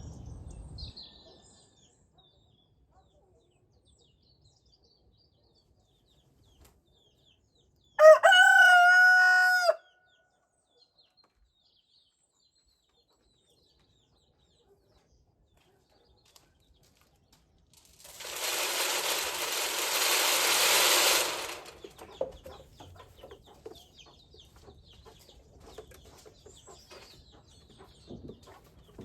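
A rooster crows once, about eight seconds in, a single call of about two seconds that rises and then holds its pitch. About ten seconds later comes a steady rushing, hiss-like noise lasting about three and a half seconds.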